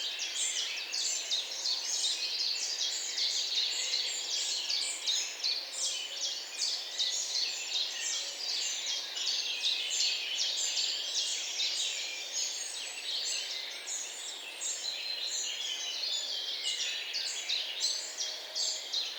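A chorus of many small songbirds chirping and singing at once, a dense, unbroken stream of short, overlapping high chirps.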